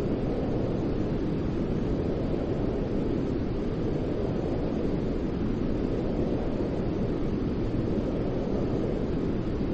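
Steady white-noise track for sleeping: a deep, even rumbling hiss, heaviest in the low end, with no breaks or changes.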